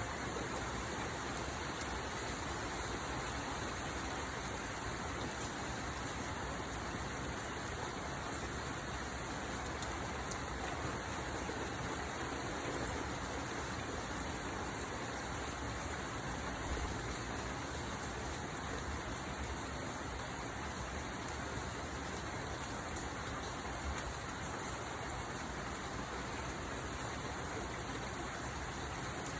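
Steady rain falling, an even hiss of drops on surfaces without let-up.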